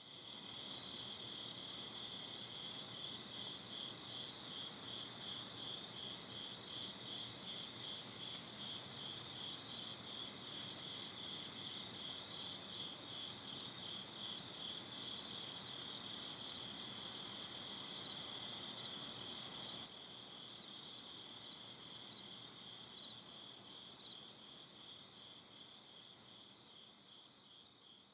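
Insects chirping in a steady chorus, a high pulsed trill of about three beats a second that starts suddenly and grows fainter over the last several seconds.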